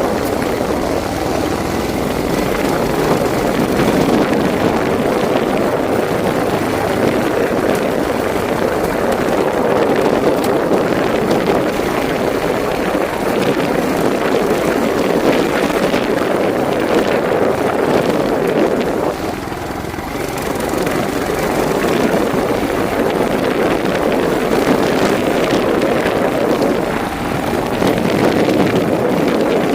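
Motorcycle engine running steadily while riding, with a short dip in level about two-thirds of the way through.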